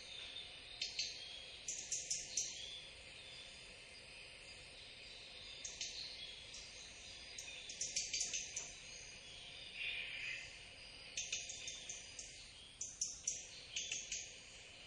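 Small birds chirping, short high calls in scattered clusters, over a steady high hiss of background ambience.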